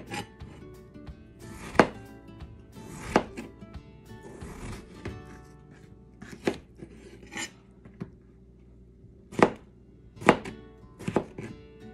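Chef's knife slicing peeled raw potatoes on a plastic cutting board: a sharp knock each time the blade cuts through and meets the board, irregularly spaced about a second or more apart, over soft background music.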